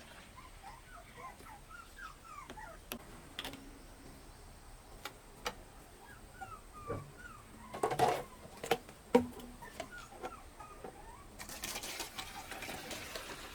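Small animal's short, high-pitched calls repeating on and off, with scattered clicks and knocks, the loudest a little past the middle, and a burst of rustling noise near the end.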